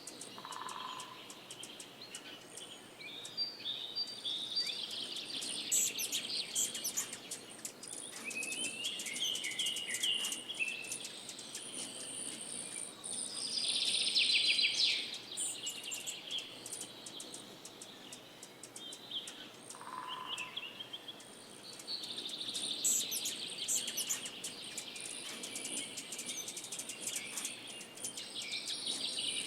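Songbirds singing: a busy, varied run of short chirps, trills and twitters, with a lower whistled note near the start and again about twenty seconds in.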